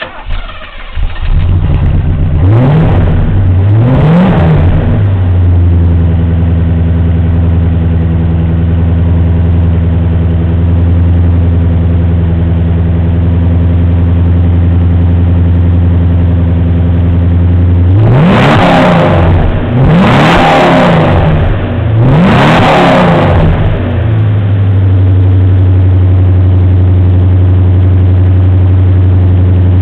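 Mercedes-Benz 500 SE V8 exhaust: the engine starts up and is blipped twice, then idles steadily. Near the end it is revved three times in quick succession, settles back to idle and is revved once more.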